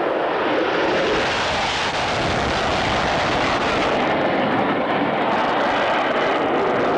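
Fixed-wing aircraft flying past: a loud, steady engine noise that grows brighter over the first couple of seconds and loses some of its high edge about four seconds in.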